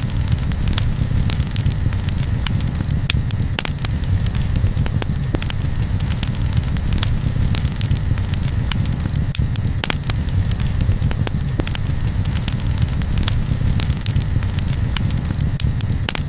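Campfire crackling: irregular sharp pops and snaps over a steady low rumble. A short high chirp repeats every second or so throughout.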